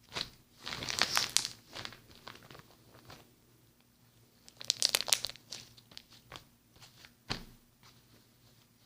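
Slime being squeezed and worked by hand, crackling in two bursts of many small pops, about a second in and about five seconds in, with a single sharp click a little past seven seconds.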